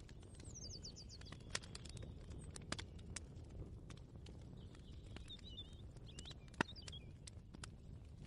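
Kitchen ambience: a steady low hum with scattered irregular clicks and taps, the sharpest about two-thirds through. A small bird chirps twice: a quick falling run of notes about a second in, and a few twittering notes a little past halfway.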